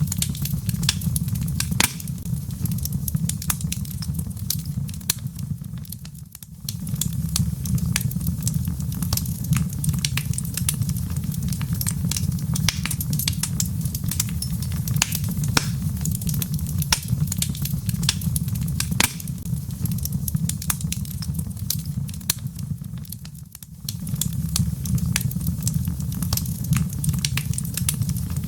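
Wood fire burning in a fireplace: a steady low rumble of flames with frequent sharp crackles and pops from the logs. The whole sound dips briefly twice, about six seconds in and near the end.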